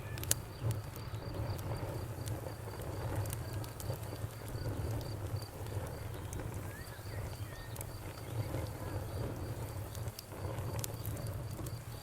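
Crackling bonfire with a few sharp pops, under a cricket chirping in a steady rapid pulse, about five chirps a second, pausing briefly a couple of times.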